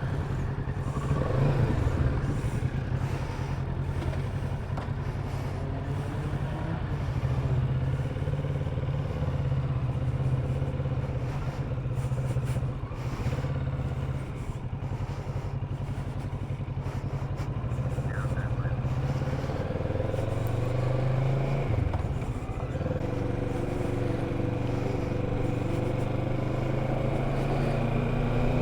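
Kawasaki Z650RS parallel-twin engine running while riding, its note shifting up and down several times with throttle and gear changes.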